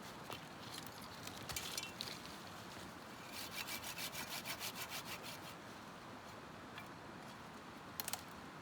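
Wood being sawn by hand in a run of quick, short strokes lasting about two seconds, in the middle of the stretch. A few sharp clicks and snaps come before it and once more near the end.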